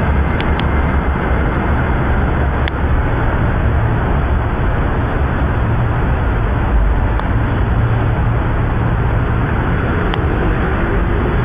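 Diesel trains running through a station: a steady, loud rumble and rush of noise, with a few faint ticks.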